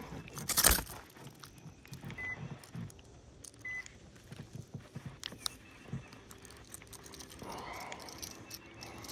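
Light clicking and rattling of fishing gear while a hooked bass is played to the boat, with a short loud rush of noise under a second in and two brief high beeps a few seconds later.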